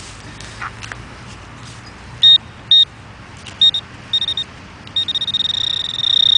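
Metal detecting pinpointer, a Garrett Pro-Pointer, beeping at a single high pitch, the beeps coming closer together and then merging into a steady tone as the probe closes in on a buried target.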